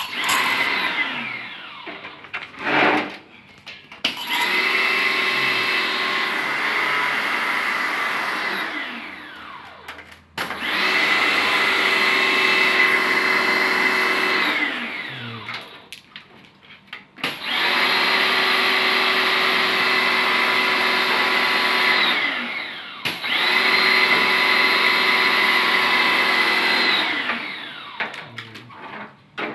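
Small electric pressure washer's motor switched on and off in several runs of a few seconds each, a steady whine with spraying hiss that winds down in falling pitch each time it stops.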